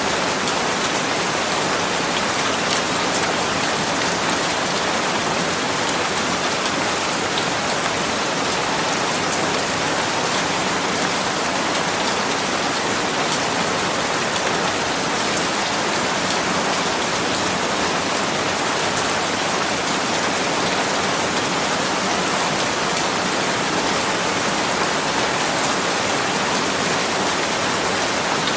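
Steady rain falling on a surface, an even hiss with many fine drop patters, at a constant level.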